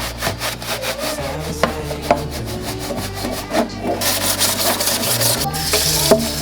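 Quick, repeated scrubbing strokes on a hard surface. About four seconds in, a steady hiss of running water joins them.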